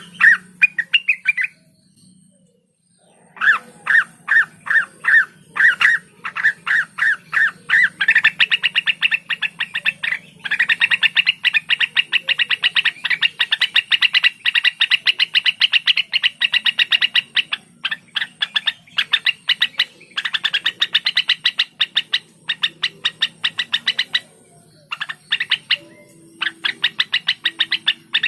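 Cucak wilis (a leafbird) singing in long runs of rapid, evenly repeated notes, with a brief pause near the start and another about 24 seconds in.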